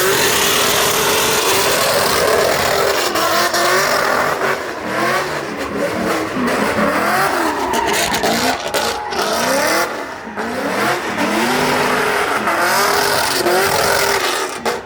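Car engine revving hard, its pitch climbing and falling over and over, with tyres screeching as a car spins donuts at a street takeover.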